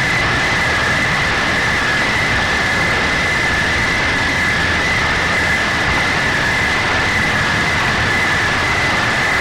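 Steady machine-like noise with a constant high whine, unchanging throughout.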